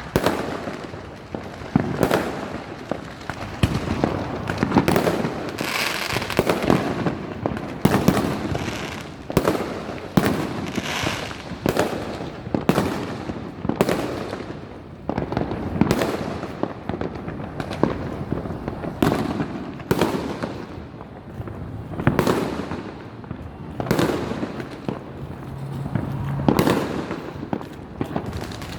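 Fireworks going off in quick succession: sharp bangs about one or two a second, with crackling between them.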